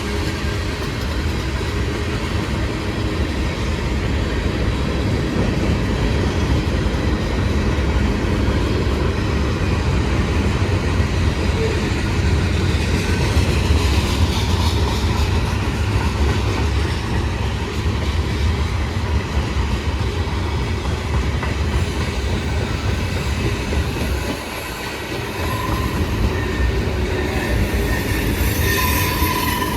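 A long CSX freight train's cars rolling past with a steady rumble and wheel clatter. High wheel squeal starts near the end.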